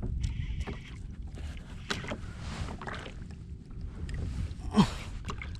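Low wind rumble on the microphone and water noise around a fishing kayak, with a few small knocks of handling.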